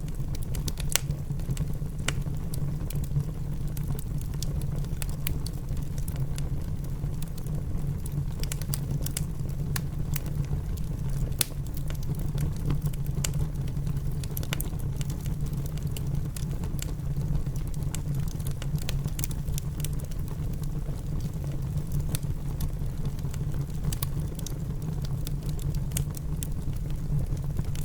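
Wood fire crackling in a fireplace, with scattered sharp pops, over a steady low rumble and the patter of rain.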